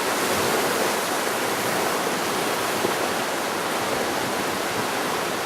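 Steady rush of fast-flowing water, a torrent or waterfall, at an even level.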